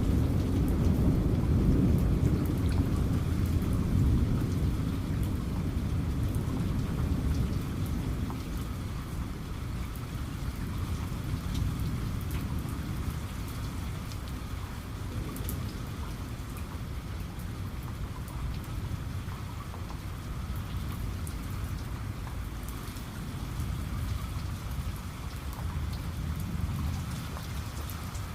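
Steady rain with scattered drop ticks, under a low rumble of thunder that fades away over the first several seconds.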